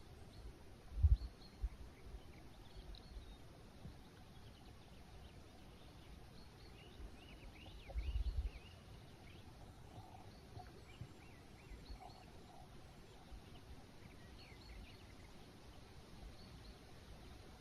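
Forest ambience: small songbirds chirping and calling on and off, faint under a steady background. Two brief low rumbles stand out, about a second in and around eight seconds.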